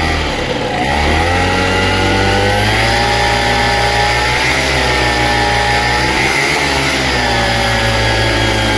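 A Vittorazi Atom 80 two-stroke paramotor engine with a tuned expansion-chamber exhaust runs at high throttle with its propeller. The revs drop briefly in the first second, climb back up, then hold steady.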